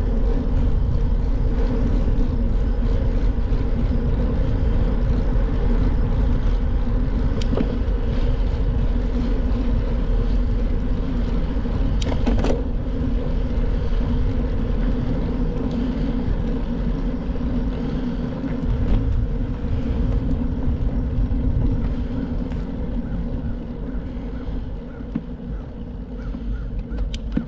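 Wind rushing on the microphone and tyre noise from a bicycle ride, with a steady hum under it, a sharp click about twelve seconds in, and the noise easing in the last few seconds as the bike slows.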